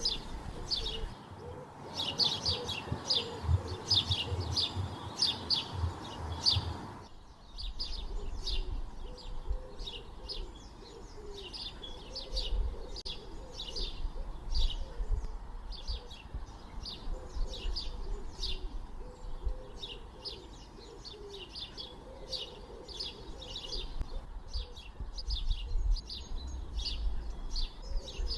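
Birds chirping: many short, high chirps in quick succession, with lower calls beneath them. The background noise changes abruptly about seven seconds in.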